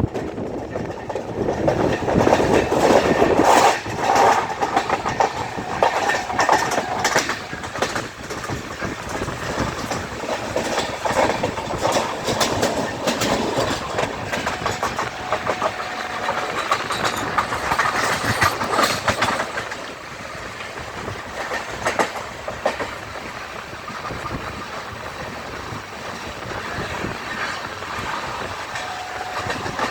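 Passenger train running through a station at speed, its wheels clattering over rail joints and points, with steady rumbling noise throughout. The clatter is heaviest early on and again about two-thirds of the way through.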